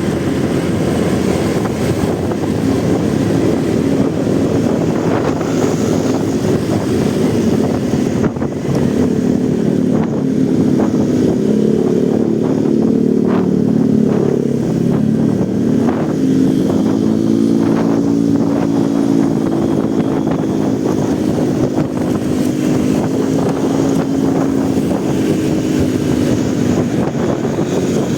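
Motorcycle engine running while riding, under a steady low rumble. From about ten seconds in, its engine note rises and falls in pitch.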